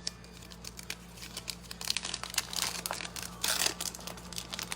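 Crinkling and tearing of a plastic trading-card pack wrapper (an Optic basketball pack) being handled and ripped open, a run of small crackles with a louder rip about three and a half seconds in. A steady low electrical hum runs underneath.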